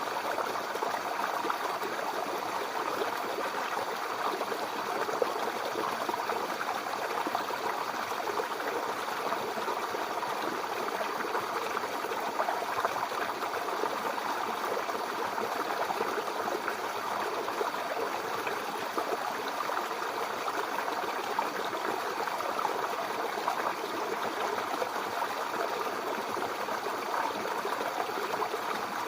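Mountain river flowing over rocks: a steady rushing and babbling of water, with fine splashy detail and no pauses.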